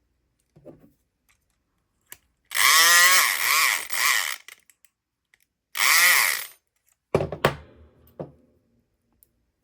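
Southord E500XT electric pick gun running in two bursts, about two seconds and then under a second, a loud buzz whose pitch wavers up and down as it is worked in a padlock. A few sharp clicks and knocks follow near the end.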